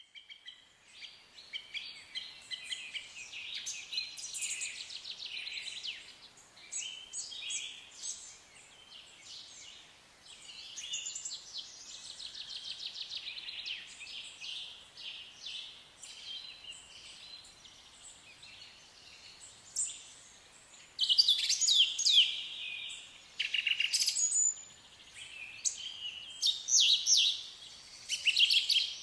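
Small birds chirping and trilling, high-pitched, with many quick calls and rattling trills, louder and denser in the last third.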